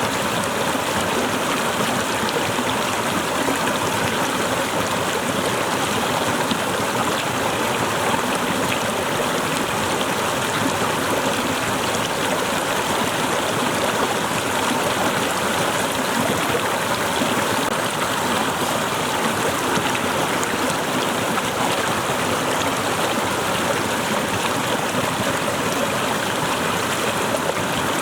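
Small waterfall pouring and splashing in a steady, unbroken rush.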